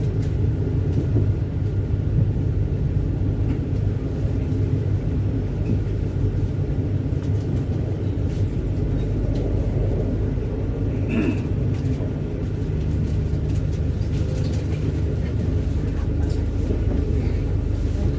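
Argo Sindoro passenger train running, a steady low rumble with a brief faint squeal about eleven seconds in.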